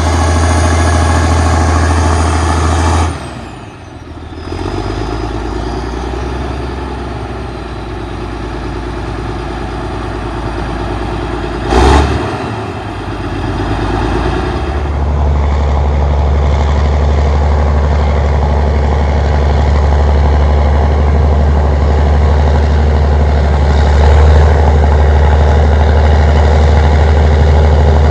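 Allis-Chalmers HD-21 crawler dozer's diesel engine running steadily with a strong low drone, briefly dropping away about three seconds in. There is a single sharp knock about twelve seconds in, and the engine note fills out again from about fifteen seconds in.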